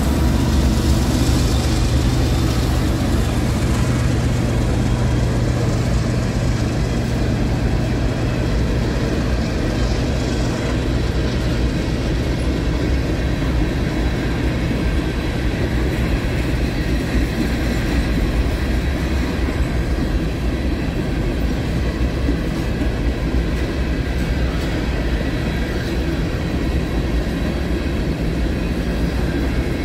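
Freight train rolling past with a steady rumble of wheels on rail. A low hum is strongest in the first few seconds and then weakens.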